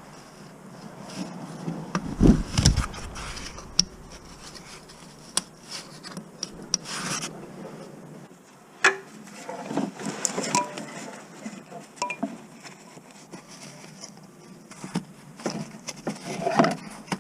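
Scattered clinks, knocks and rubbing of hand tools and metal parts being handled, with a heavier low thump about two seconds in.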